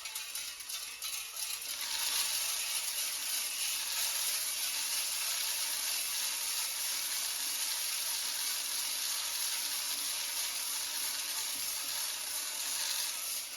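A steady rushing hiss from a home coffee-roasting setup with a home-made exhaust starts about two seconds in and runs on evenly, easing slightly near the end.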